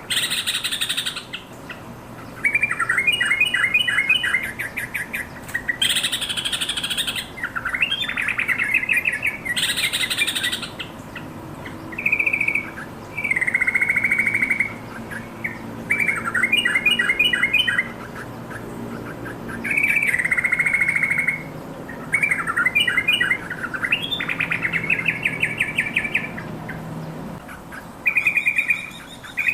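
Yellow-vented bulbul singing: short, rapid phrases of bubbling chirps, each about a second long, repeated again and again with brief pauses between them, some phrases harsher than others.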